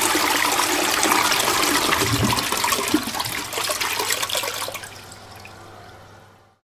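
Toilet flushing: a loud rush of water swirling down the bowl, which dies down about five seconds in and stops just before the end.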